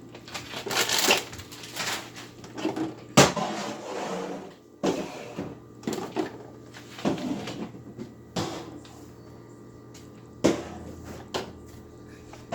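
Irregular clunks, knocks and rattles of containers and plastic parts being handled in a refrigerator's bottom section while it is emptied. The sharpest knock comes about three seconds in.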